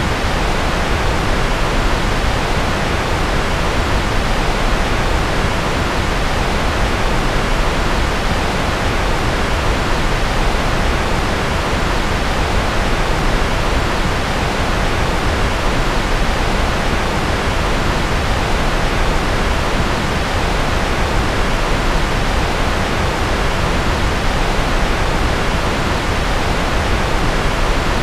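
Steady electronically generated noise: an even, unbroken hiss with a full low end, level and unchanging throughout.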